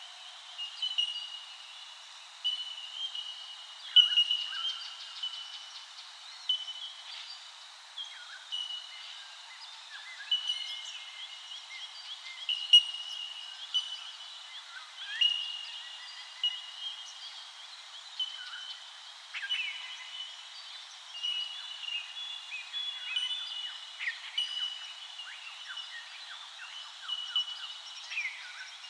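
A chorus of many birds calling at once: short, high, steady-pitched notes repeated constantly and overlapping, mixed with scattered chirps and quick downward-sweeping calls.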